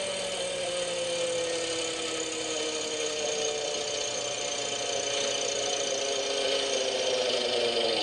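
Hirobo Shuttle RC helicopter's small glow-fuel engine and rotors running, the whine slowly falling in pitch as the engine winds down.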